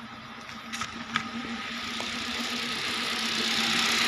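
Hyundai Accent's four-cylinder engine idling with a rough idle, the fault behind its flashing check-engine light; the running noise grows steadily louder, with two light clicks about a second in.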